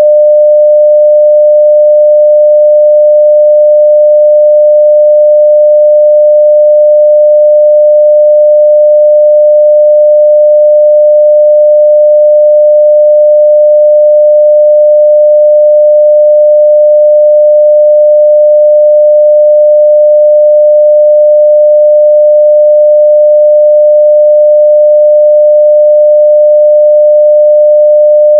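A steady 600 Hz sine-wave test tone at full level, one pure unchanging pitch.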